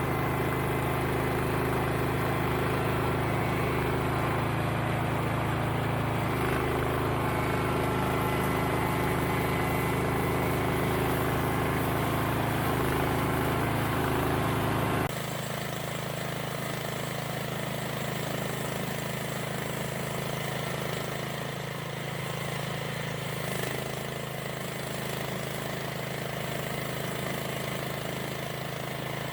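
A motor engine running steadily with no change in pitch. About halfway through the sound changes abruptly to a quieter, thinner running.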